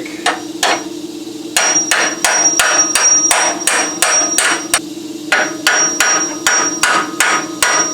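Hammer blows on steel, about three a second in two long runs with a short pause between. Each blow rings with a high metallic tone. The hammering is aimed at a stubborn welded-on mount tab on a car's steel chassis frame.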